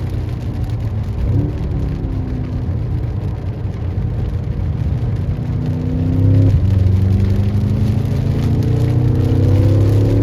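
BMW M6 Competition's twin-turbo V8 running on track: the engine note sinks slowly as the car slows, with a short blip about a second and a half in. About six and a half seconds in the pitch drops suddenly with a gear change, then the revs climb steadily as it accelerates.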